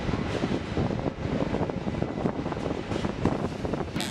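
Rhaetian Railway train running slowly along street track, wheels rumbling and clicking on the rails, with wind buffeting the microphone at the open window. A sharper clack sounds near the end.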